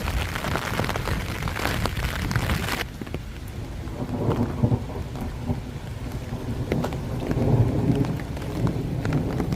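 Thunderstorm: steady rain hiss that cuts off abruptly about three seconds in. It is followed by low rolling thunder, swelling twice, with scattered raindrop ticks.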